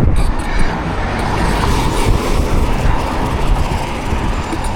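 Wind rumbling on the microphone over road and traffic noise while riding a bicycle through the city.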